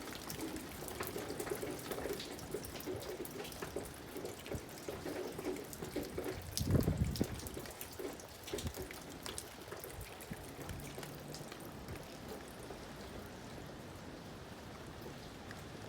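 Rain falling and dripping, individual drops ticking on nearby surfaces over a steady wash of rain, with a brief low rumble about seven seconds in.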